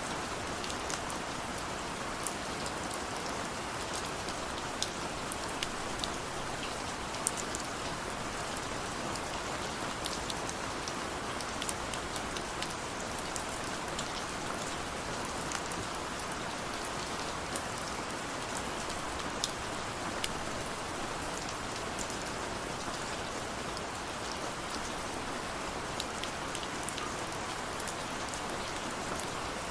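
Steady rain falling, with a constant hiss of rainfall and scattered individual drops ticking sharply against a surface.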